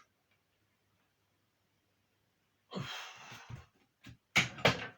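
A man breathing hard under a heavy safety squat bar: a long breath out about three seconds in, then three short, sharp, loud breaths near the end as he works under the load.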